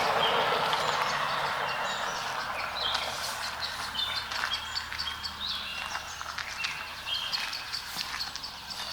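Small birds chirping in short, high calls, many times over, while the rushing noise of a passing engine fades away.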